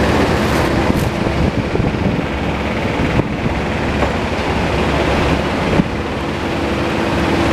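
A 2008 Kawasaki EX250's parallel-twin engine running steadily, with wind buffeting the microphone and a short knock about six seconds in.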